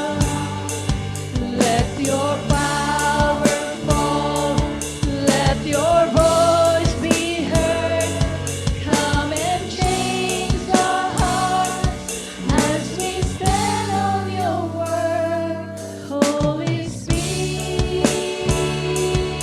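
Live worship band playing, with a voice singing over a steady drum kit beat. The drums drop out for about two seconds near the end, then come back in.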